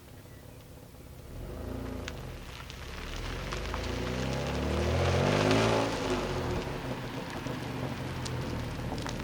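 Dodge Stealth's 3.0-litre twin-turbo V6 engine rising in revs, climbing in pitch and growing louder to a peak about five and a half seconds in, then falling back to a steadier, lower running sound.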